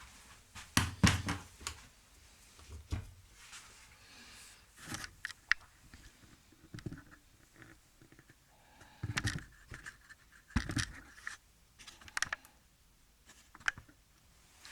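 Irregular knocks, clatter and short scrapes of hand tools and a workpiece being handled on a workbench, with the loudest knocks about a second in and again near the two-thirds mark.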